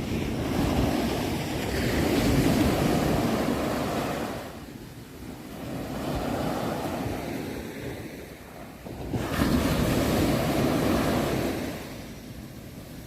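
Sea waves breaking and washing back, the surf swelling and fading about every four seconds, three times over.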